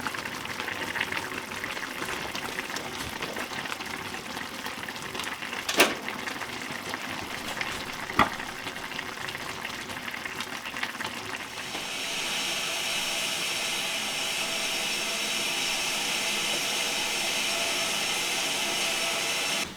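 Steady hissing of water or food cooking in a kitchen, with two sharp clicks about six and eight seconds in. About twelve seconds in the hiss grows louder and holds steady, then cuts off suddenly at the end.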